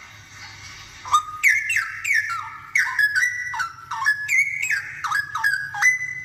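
Straw-headed bulbul in full song: starting about a second in, a fast, bubbling run of loud, rich whistled notes that step up and down in pitch, ending on a held note.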